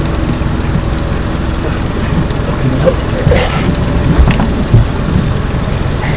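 Boat motor running steadily at a low, even idle, with a few short knocks from the boat near the middle and end.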